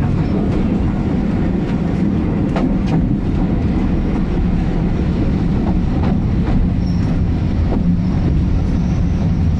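Passenger train heard from inside the carriage as it pulls into a station: a steady low rumble of wheels on the track, with occasional clicks as the wheels cross rail joints and points. A faint high whine joins in after about seven seconds.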